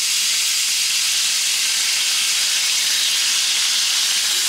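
Marinated mushrooms frying in butter in a cast-iron skillet: a steady sizzle.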